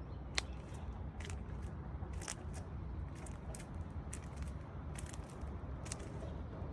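Irregular short crunching clicks, one or two a second, over a steady low rumble.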